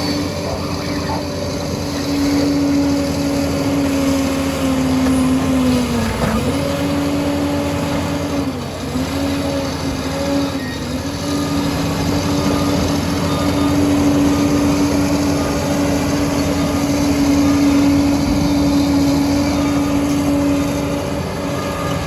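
Liebherr PR 746 bulldozer running with a steady whine over the diesel engine. The pitch dips briefly three times in the first half, as the machine takes load.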